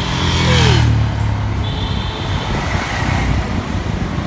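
Road traffic, with a motor vehicle passing close; its engine is loudest in the first second and a half, with a brief hiss and a falling tone about half a second in.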